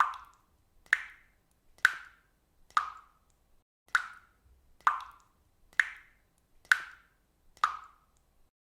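Water dripping steadily, one drop a little under every second, each a sharp plop with a short ring.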